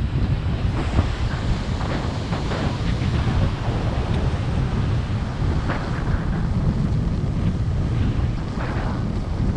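Strong wind buffeting the microphone in a steady low rumble, over the hiss of ocean surf breaking.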